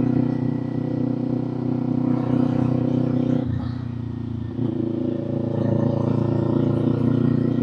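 Kawasaki Z400 parallel-twin engine and exhaust running steadily under way. It eases off briefly about three and a half seconds in, then pulls again.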